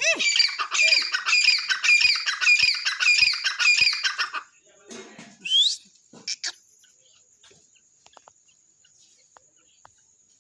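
Grey francolin (titar) calling: a loud, rapid run of about eight evenly repeated harsh notes over four seconds, then a single rising squeal and two short notes, after which the bird falls silent.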